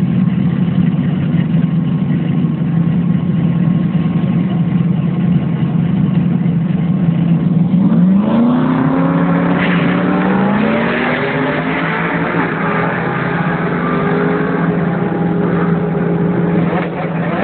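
Race car engine running steadily at a low, even pitch, then about eight seconds in it revs up, its pitch climbing in several steps and staying high.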